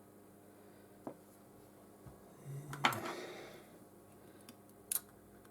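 A few light clicks and taps from small repair tools and parts being handled inside an opened iPhone 13: one click about a second in, a louder click with a short scraping tail about three seconds in, and another sharp click near the end.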